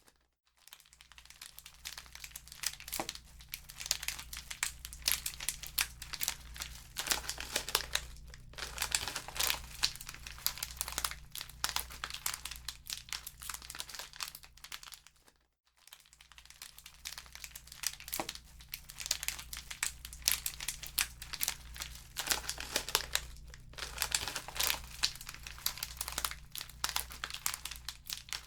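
Wood fire in a fireplace crackling with scattered sharp pops, over a faint steady low hum. The sound cuts out briefly twice, near the start and about halfway through, where the same stretch of crackling loops.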